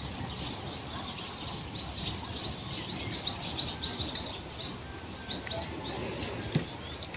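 Small birds chirping in a rapid string of short, high chirps, busiest midway, over a low steady background noise. A single brief knock near the end.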